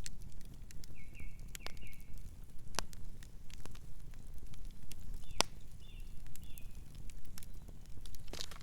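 Campfire burning: scattered sharp pops and crackles from the burning wood over a steady low rumble of the flames, with a few short high chirps.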